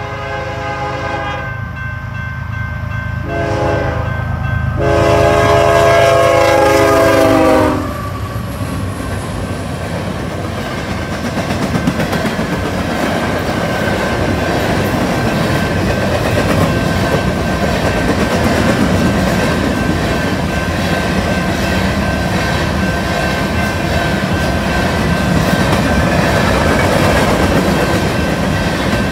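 Diesel freight locomotive horn: a blast that ends about a second in, then a short blast, then a long, loudest blast that drops in pitch at its end as the locomotive passes, over a low engine rumble. Then a long string of covered grain hopper cars rolls past with a steady rattle and clickety-clack of wheels on the rails.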